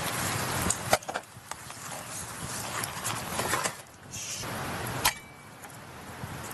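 Camp cooking: scattered sharp clicks and knocks of utensils and cookware, over a steady rushing background that drops sharply about a second in and again near five seconds.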